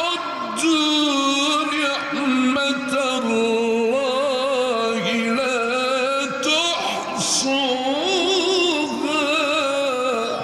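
A man's Quran recitation in the melodic mujawwad style: long drawn-out phrases with the pitch wavering and sliding in ornaments, broken by short breaths about two seconds in and again past the middle.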